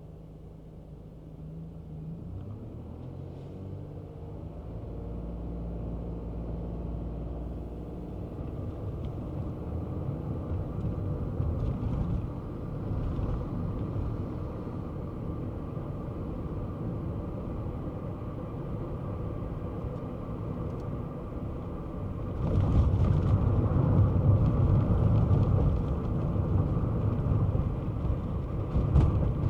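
Kei car driving: its small engine pulls away with a rising pitch, then runs on with a low road and tyre rumble that grows as speed builds. The rumble gets suddenly louder about three-quarters of the way through.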